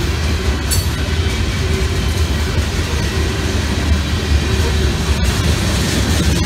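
CSX mixed freight train's covered hopper cars rolling past, their wheels running steadily on the rails with a loud, even noise that sits strongest low down.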